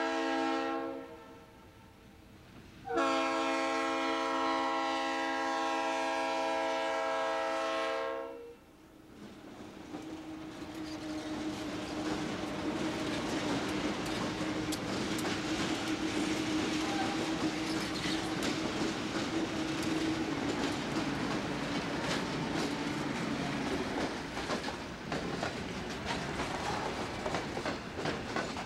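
Conrail GE diesel locomotives sounding their air horn: a blast ending about a second in, then a long blast from about three to eight seconds. The locomotives then pass with a steady engine drone, followed by empty coal hopper cars rolling by with a rumble and clicking wheels over rail joints.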